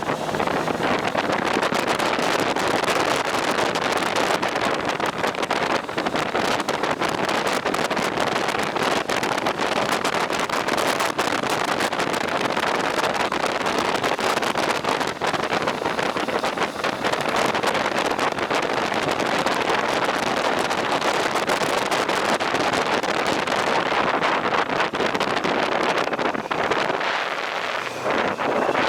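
Steady rush of wind over the microphone of a rider travelling at speed, with road and vehicle noise mixed in.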